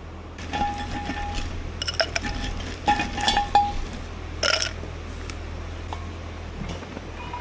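Tableware clinking: a series of light knocks with short ringing tones, the loudest near the middle and one more a second later.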